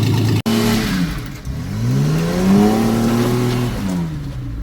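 Vehicle engine running steadily, cut off abruptly about half a second in; then an engine revs up, holds for about a second, and drops back down.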